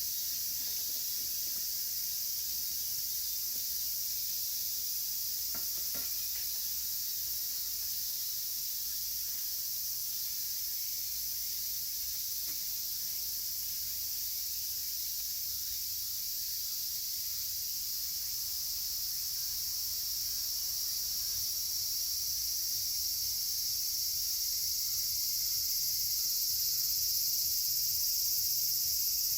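Dense chorus of cicadas, a steady high-pitched shrill that grows louder over the last few seconds, with a faint crackle or two from a wood campfire.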